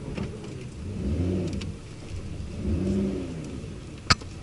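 Lotus Evora 400's supercharged 3.5-litre V6 pulling away at low speed, heard from inside the cabin, the revs rising and falling twice. A single sharp click near the end.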